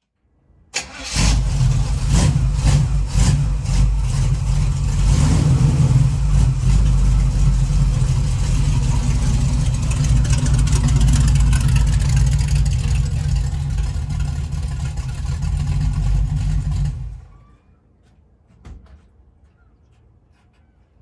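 A small-block Chevy 350 V8 in a 1936 Chevrolet coupe starts about a second in and is blipped a few times. It then runs steadily while the car pulls out, and shuts off about 17 seconds in, followed by a single short knock a little later.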